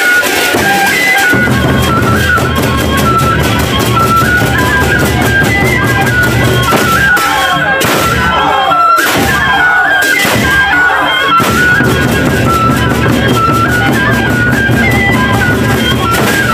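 Gendang beleq ensemble playing: big drums with dense, rapid cymbal strokes under a held, stepping wind-instrument melody. The drums drop out briefly about halfway through, then come back in.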